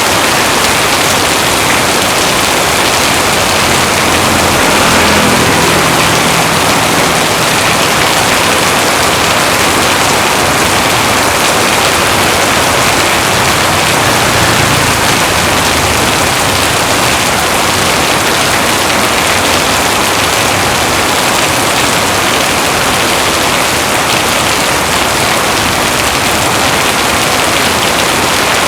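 Heavy rain falling steadily: a loud, dense, unbroken hiss. A faint low rumble swells beneath it in the first half.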